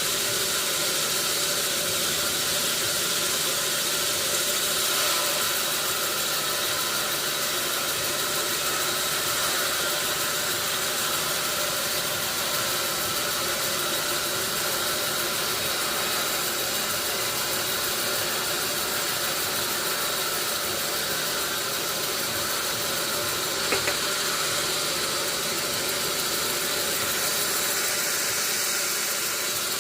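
Steady mechanical running noise, a machine or engine running evenly with a hiss over it, with one short click about three-quarters of the way through.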